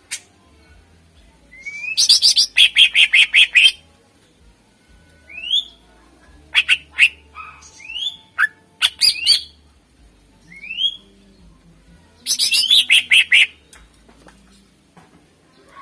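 Green leafbird (cucak ijo) singing loudly: quick upward-sliding whistled notes and rapid runs of sharp repeated chips, a fast burst a couple of seconds in and another near the end.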